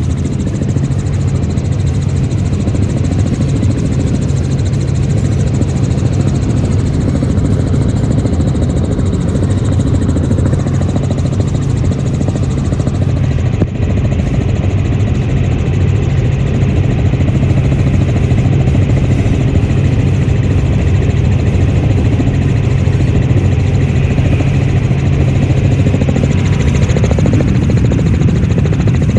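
Helicopter cabin noise in flight: a loud, steady drone of the rotor and engine heard from inside the cabin, with a short click about fourteen seconds in.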